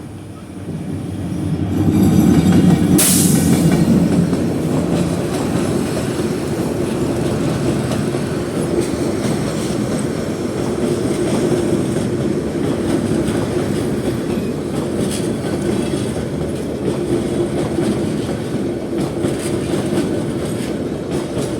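Train running along the track: a steady rail rumble with wheels clacking over the rail joints. It grows louder over the first two seconds, with one sharp metallic clank about three seconds in.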